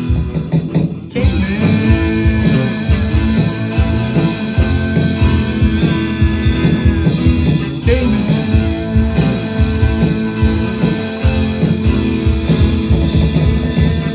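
Psychedelic rock music with guitar, bass and drums playing a steady beat.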